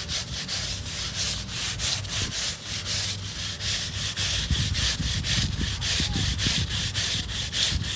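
Stiff scrub brush scrubbed hard back and forth over wet paver stones, in quick, even strokes of about five a second, working bleach into the mold and mildew to lift it.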